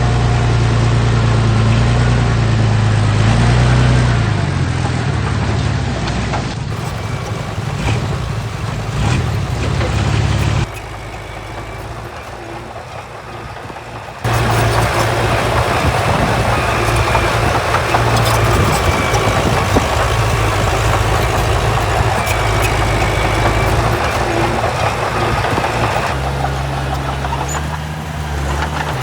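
Heavy diesel engine of earthmoving machinery running steadily under load. The sound drops abruptly about eleven seconds in and comes back just as suddenly about three seconds later.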